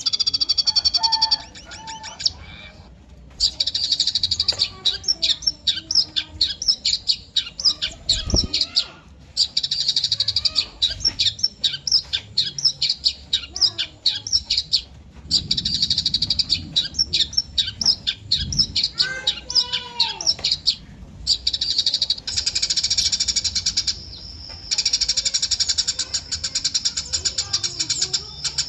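Eurasian tree sparrows chirping: long runs of rapid, high chirps, broken by brief pauses every few seconds.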